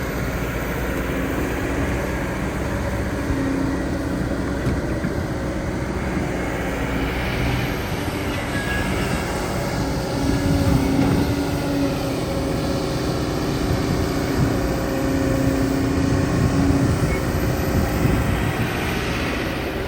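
Excavator's diesel engine running steadily with a low hum. It grows louder and rougher from about halfway through, as if working under load.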